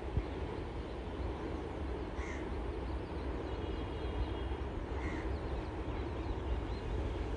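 A crow cawing twice, about three seconds apart, over a steady low rumble.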